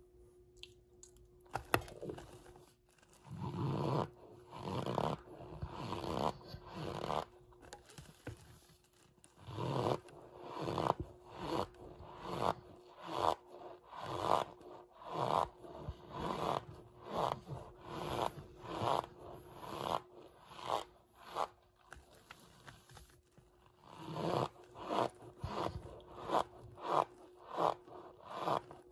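Cornstarch being crunched over and over in short squeaky, crunchy bursts, roughly one a second, with a brief pause about three quarters of the way through. A faint steady hum runs underneath.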